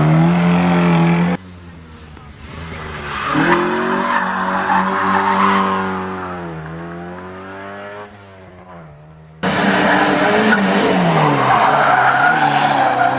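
Rally cars driven flat out and sideways, engines revving hard with tyres squealing. A close car revs until a sudden cut, then another car approaches, passes with its engine note dropping, and fades away. Near the end comes another sudden cut to a loud car revving up and down through a drift.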